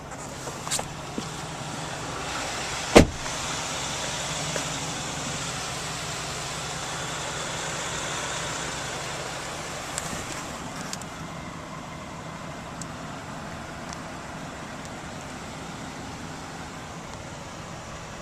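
A vehicle with a few clicks, then one loud knock about three seconds in, followed by a steady running noise that swells and then eases off about halfway through.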